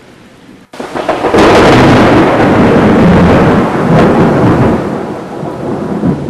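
Recorded thunderstorm sound effect: a softer rain-like hiss, then a loud peal of thunder about a second in that rolls on and slowly fades.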